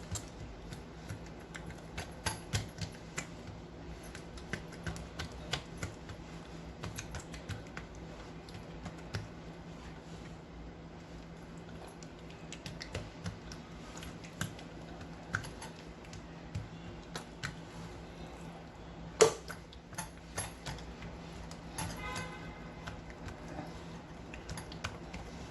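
Irregular soft clicks and taps of hands pressing and stretching oiled dough on a marble counter, over a steady low hum. One sharper knock comes about three-quarters of the way through.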